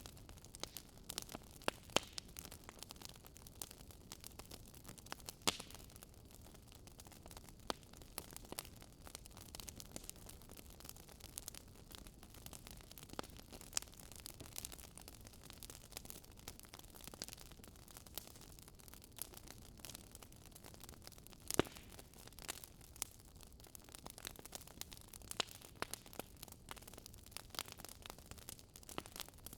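Wood fire burning in a fireplace, crackling with irregular sharp pops and snaps over a soft steady hiss. The loudest pop comes about two-thirds of the way through.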